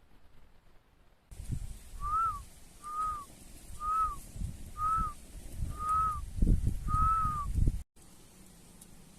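A bird calling a series of six short whistled notes, each rising then falling, about one a second, over uneven low rumbling thumps. The sound cuts off suddenly near the end.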